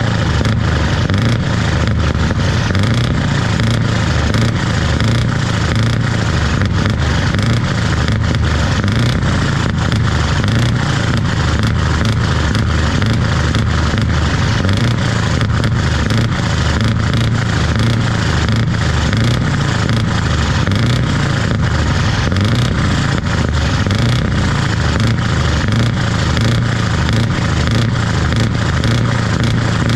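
Scania 164 580's V8 diesel engine running loud and steady, its deep exhaust note holding an even pitch and level throughout.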